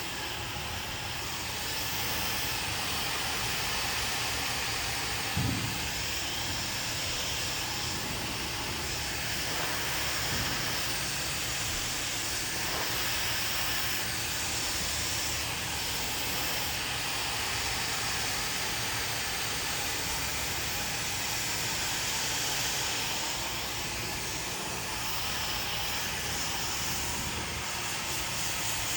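Handheld hair dryer blowing steadily, its hiss swelling and easing slightly as it is moved. A brief low thump about five seconds in.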